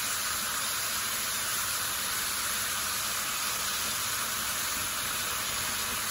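Sliced zucchini, bell peppers and green beans sizzling in hot oil in a frying pan: a steady, even hiss.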